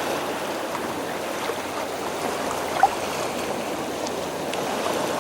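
Steady wash of seawater around a tide pool, small waves lapping, with one brief louder tick nearly three seconds in.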